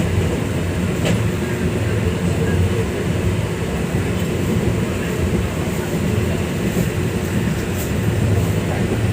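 Passenger train running: a steady rumble from the wheels and carriage, with a few faint clicks.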